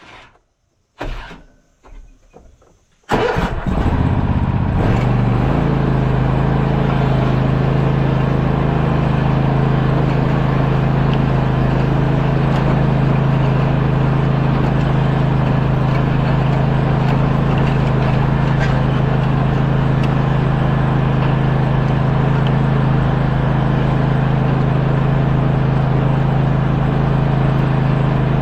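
A few knocks, then an engine starts about three seconds in, revs briefly, and settles into steady running with a strong even hum.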